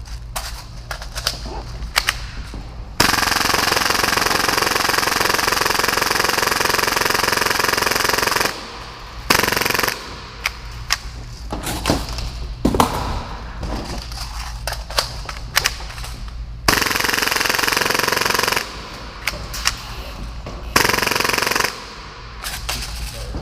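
Full-auto Tokyo Marui Hi-Capa gas blowback airsoft pistol, built to fire about 30 rounds per second, shooting tracer BBs in bursts. A long burst of about five seconds starts about three seconds in, followed by shorter bursts, with scattered single clicks between them.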